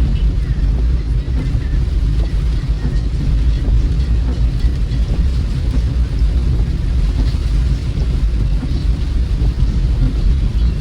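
Car driving on a wet road in the rain, heard from inside the cabin: a steady deep road and engine rumble with a faint hiss of rain and tyre spray above it.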